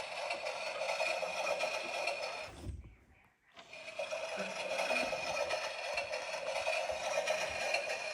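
Washing machine running with a steady whirring hum that drops out for about a second roughly three seconds in, then resumes.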